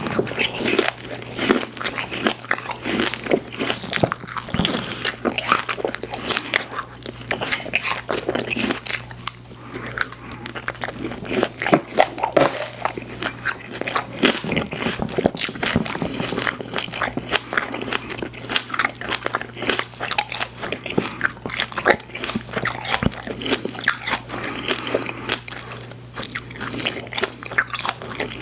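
A person chewing and biting sweets close to the microphone, with a dense, irregular run of sharp mouth clicks throughout.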